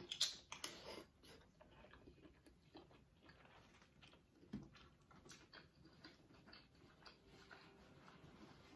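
Quiet close-up eating sounds: a bite into shrimp, then soft wet chewing with small mouth clicks and smacks, loudest in the first second.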